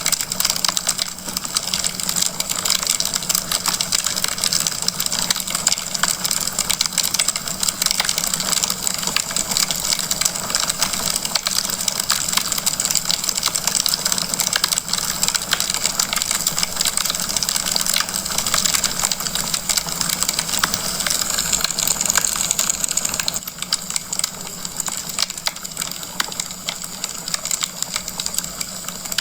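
Wood fire crackling in a fireplace: a dense, continuous run of small pops and snaps over a hiss, a little quieter near the end.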